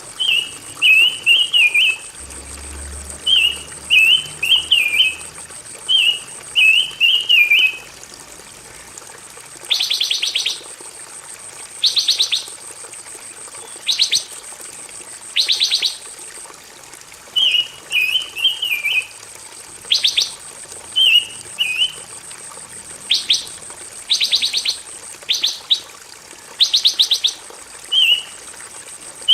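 Recorded song of a pancawarna songbird: short, chirpy warbled phrases repeated about every second, with brief fast buzzy trills mixed in through the middle. A faint steady high hiss runs underneath.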